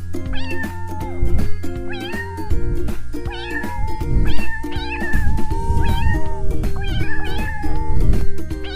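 A cat meowing over and over, about once a second, over background music with a steady beat.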